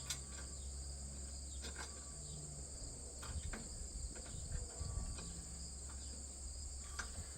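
Steady high-pitched chirring of crickets, with a few faint clicks.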